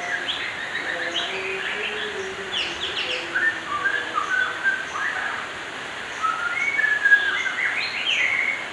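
White-rumped shama singing its 'whisper' song, a steady stream of short, varied whistled notes and quick slurs that leap up and down in pitch with hardly a break. The notes come thickest near the end.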